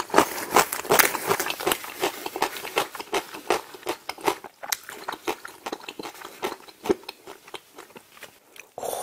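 A person biting into and chewing a mouthful of smoked chicken leg in rosé cheese sauce, heard as a close, steady run of wet chewing clicks, several a second. The clicks grow fainter near the end.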